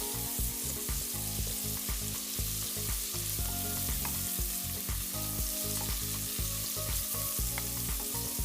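Onions, bell peppers and garlic sizzling in olive oil in a cast iron skillet: a steady frying hiss.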